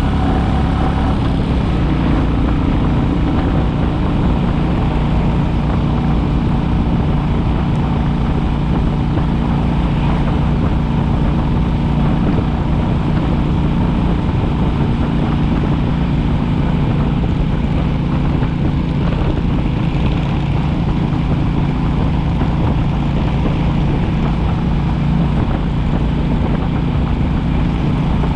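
Royal Enfield Classic 350's single-cylinder four-stroke engine running steadily while the motorcycle is ridden at an even pace, with a slight shift in engine note within the first two seconds.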